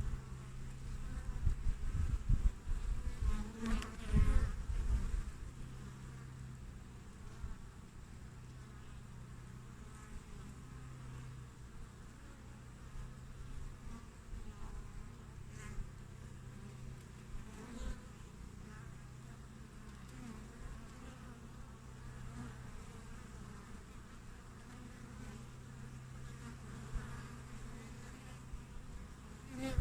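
Honeybees buzzing at the hive entrance: a steady hum with single bees buzzing past. In the first few seconds there are louder, low rumbling surges.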